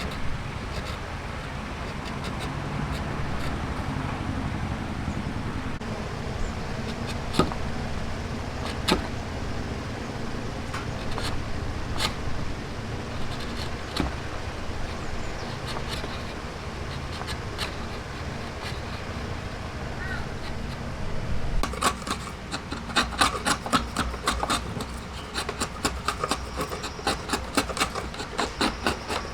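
Hand tools working wood: a steady low rumble with a few single knocks, then from about 22 s on, quick repeated sharp taps and clicks several times a second.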